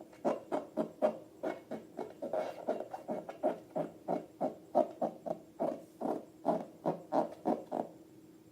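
Slime being squeezed and kneaded by hand: a regular run of short wet squelches, about three a second, stopping near the end.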